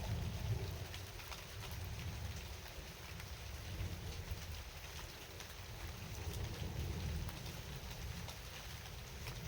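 Steady rain falling, with scattered individual drops ticking over an even hiss and a low rumble underneath.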